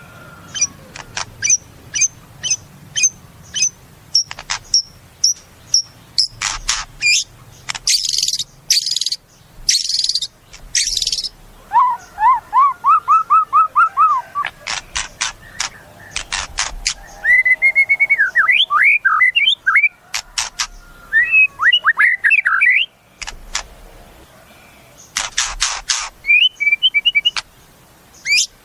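White-rumped shama (murai batu) singing a varied song: strings of sharp clicks, a few harsh buzzy bursts, then runs of quick repeated whistled notes and rising whistles, and more clicks near the end.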